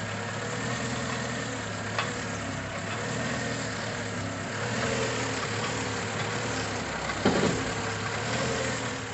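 Volkswagen SpaceFox engine idling steadily, with a single sharp knock about two seconds in and a short cluster of knocks a little after seven seconds.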